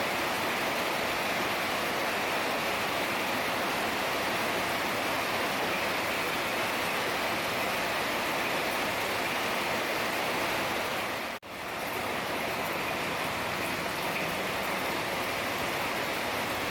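Heavy rain falling as a steady, dense hiss. It cuts out for a split second about two-thirds of the way through, then returns at the same level.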